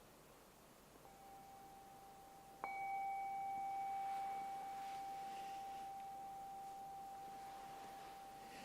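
A meditation bell struck to close the meditation: a soft first touch about a second in, then a firmer strike a little later that rings with a pure, slowly fading tone.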